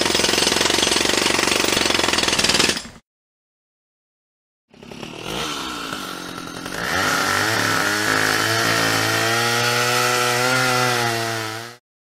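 Two power-tool sounds back to back. First, about three seconds of a dense, rattling power tool. Then, after a short gap, an electric tool motor spins up and runs with a wavering pitch for about seven seconds before cutting off sharply.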